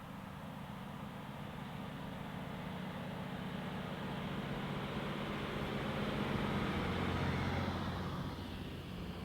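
Sugar cane train's diesel locomotive approaching and passing, its engine drone growing steadily louder to a peak about seven seconds in, then easing off.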